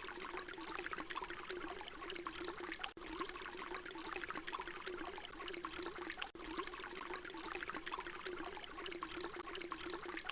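Water pouring steadily with a bubbly, splashing trickle. There are two split-second gaps, about three and six seconds in.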